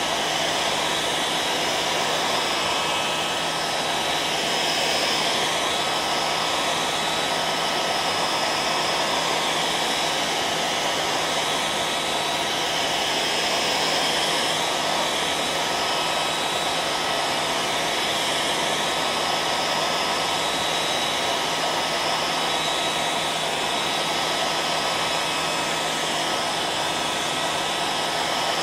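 Hair dryer running continuously at a steady speed: an even airy rush with a faint steady whine from its motor and fan.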